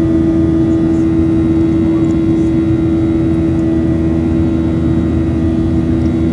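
Boeing 737-800's CFM56-7B turbofans running steadily, heard from inside the cabin: one strong steady hum with fainter higher tones over a dense low rumble of engine and airflow noise.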